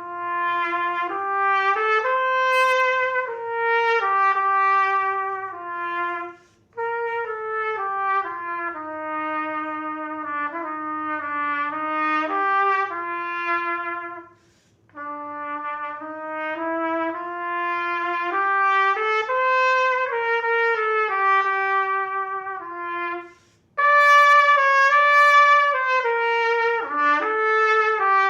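Solo trumpet playing a melody in a series of phrases, with short breaks for breath about six, fourteen and twenty-three seconds in.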